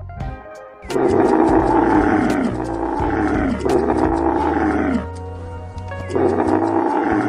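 An animal giving four long, rough calls, each sliding down in pitch, over background music.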